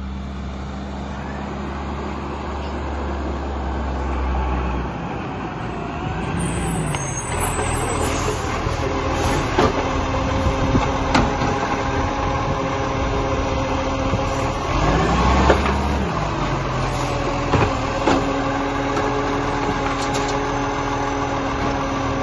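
Garbage truck engine running, rising and falling in pitch twice, with a steady whine coming in partway through and several sharp knocks.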